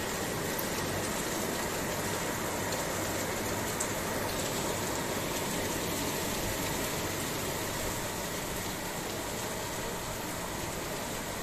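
Rain falling steadily, an even hiss with no let-up, and one small tick about four seconds in.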